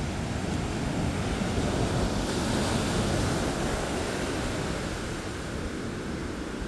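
Ocean surf washing on the beach with wind buffeting the microphone; the hiss of the surf swells about two seconds in and then eases.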